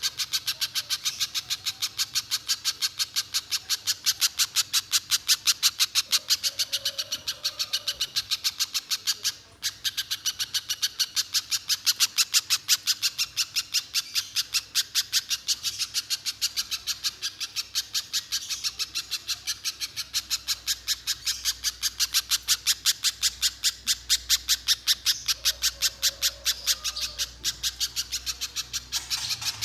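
Little spiderhunter (pijantung pisang) singing a long, unbroken run of rapid, even, high notes, about five a second, with one brief pause about nine seconds in.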